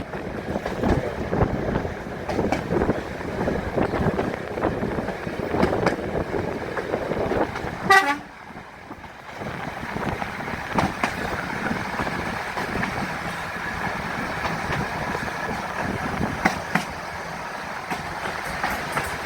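Busy model railway exhibition hall background of mixed noise from running layouts and visitors, with one short horn or whistle toot about eight seconds in.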